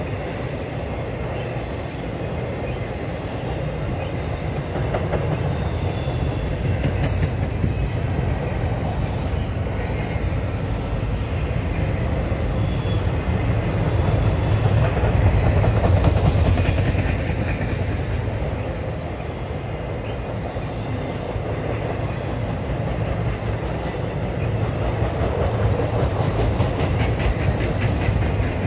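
Empty intermodal well cars of a freight train rolling past: a steady rumble of steel wheels on rail with some clicking over the joints, growing louder around the middle.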